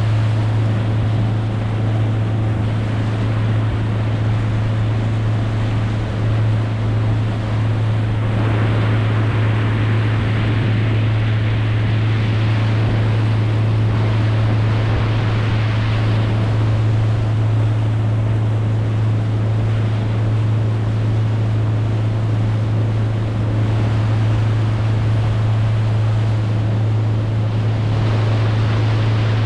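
A boat motor running at a steady pitch over the rush of water and wind on the microphone.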